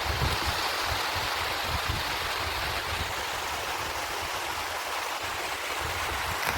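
Sea surf washing on a beach, a steady rushing hiss, with wind buffeting the microphone in low, uneven gusts.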